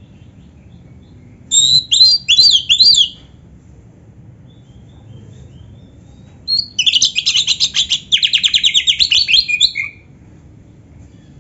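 Oriental magpie-robin (kacer) singing: a short phrase of a few quick downslurred whistles, then a few seconds later a longer, rapid, evenly repeated trill lasting about three seconds.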